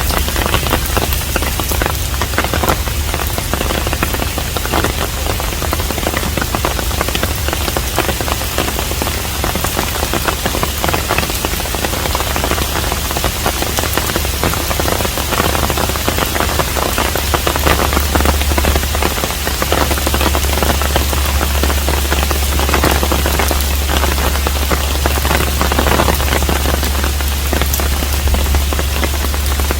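Steady rain falling on a hanok, a traditional Korean house: a dense, even patter of drops with a constant low rumble underneath.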